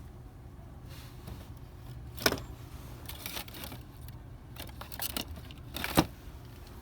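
A few sharp clacks and light rattles, the loudest about two seconds in and again near the end, over a steady low hum.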